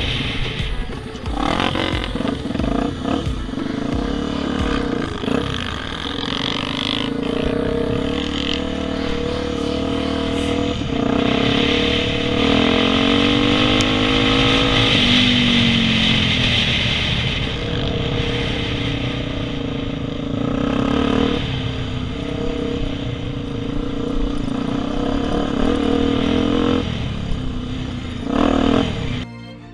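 Single-cylinder enduro motorcycle engine, a Honda XR250 Tornado, running hard while riding off-road, revs climbing and dropping, with a sweep up and back down about halfway through. Clattering from the bike is mixed in throughout.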